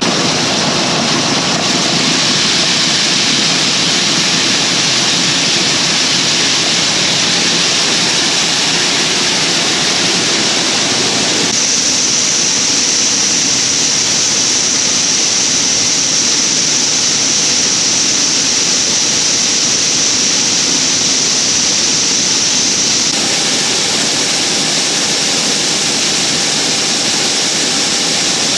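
Corn pouring into a semi trailer as it is loaded, a loud, steady rushing hiss. The tone shifts abruptly twice, about a third and two thirds of the way through.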